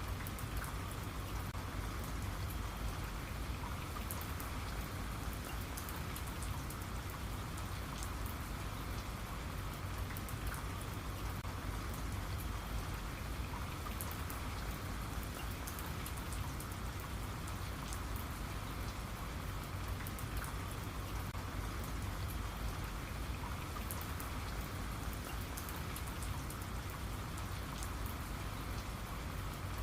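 Steady rain, with a dense patter of individual drops hitting a surface.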